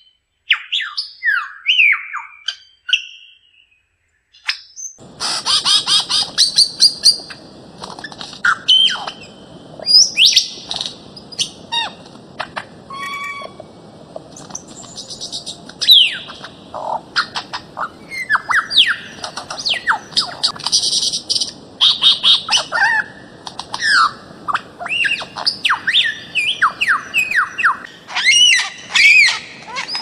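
Birds-of-paradise calling: a quick series of sharp squawks and chirps, many sweeping down in pitch, with fast clicking runs between them. The calls break off for about two seconds near the start, and a faint forest hiss lies under them afterwards.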